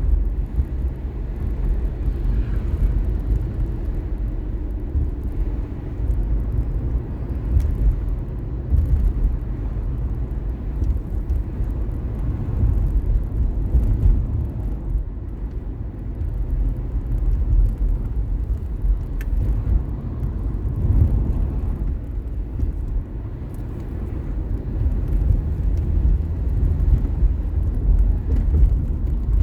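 Steady low rumble of a car driving, tyre and engine noise heard from inside the car.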